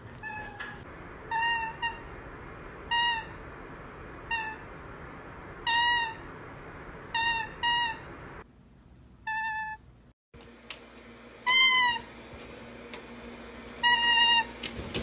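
A series of about nine short meow-like calls, each a clear pitched cry, repeated roughly every second or so with a short break and a moment of silence about two thirds through.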